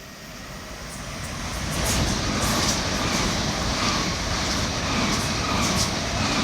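Class 387 electric multiple unit passing through at speed: the noise builds over about the first two seconds into a steady rush of wheels on rail, with rattling and clattering.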